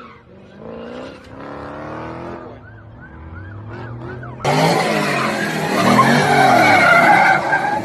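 A car engine revving, rising in pitch. About four and a half seconds in, a sudden, much louder rush of engine and tyre noise cuts in and holds almost to the end.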